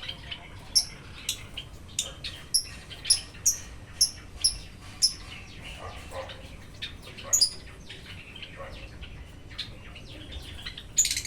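Sooty-headed bulbul (kutilang) giving a run of short, sharp high chirps, about two a second, that thin out after about five seconds.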